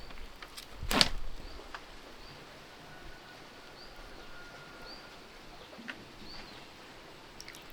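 Faint, short, high bird chirps repeating about once a second over steady background noise, after a brief loud rustle about a second in.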